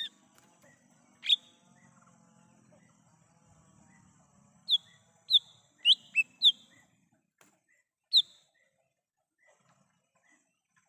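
Wild cucak ijo mini (small green leafbird) calling in short, sharp chirps: a couple of single notes, a quick run of five about halfway through, then one more, over faint repeated ticks.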